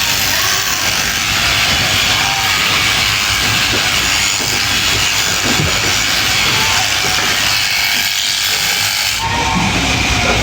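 Electric sheep-shearing handpiece running, a steady loud hissing buzz as it cuts through fleece. The sound changes about nine seconds in.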